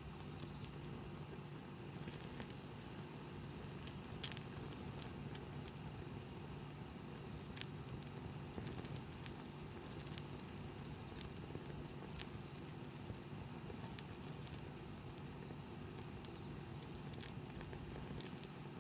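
Wood campfire burning, with scattered sharp crackles and pops; the loudest come about four seconds in and about seven and a half seconds in.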